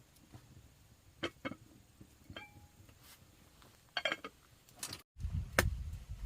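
A few scattered light clinks and knocks of small hard objects, one cluster about four seconds in. Just after five seconds the sound cuts and a low rumble begins, with one sharper click.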